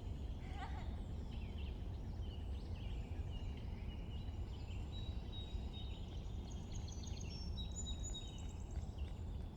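Spring birdsong: a warbler and a sparrow singing overlapping high, rapid trills and chirps, with a single lower, falling goose call about half a second in. A steady low rumble of background noise runs underneath.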